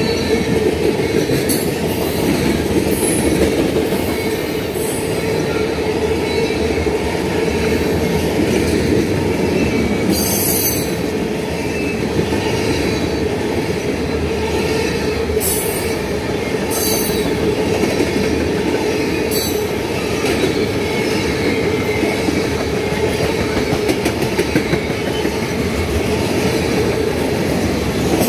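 Freight train of ethanol tank cars rolling past: a steady, loud rumble of steel wheels on the rails, broken a few times by short high-pitched wheel squeals.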